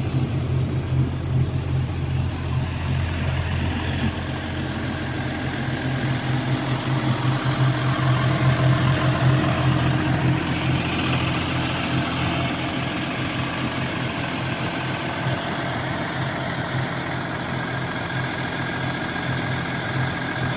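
John Deere 6830 tractor's six-cylinder diesel engine idling steadily, a little louder for a few seconds midway.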